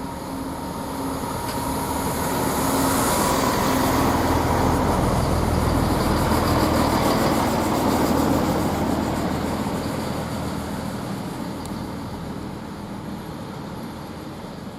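Class 165 diesel multiple unit pulling away and passing, its underfloor diesel engines running with a steady low drone over rail noise. It builds up over the first few seconds, holds, then fades away as the train draws off.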